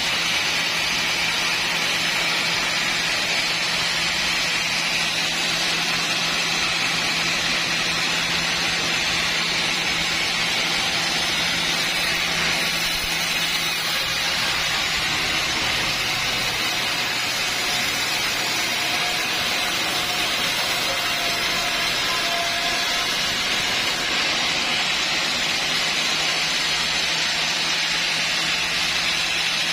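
Sawmill saw running steadily, with a constant motor hum under a loud, even hiss.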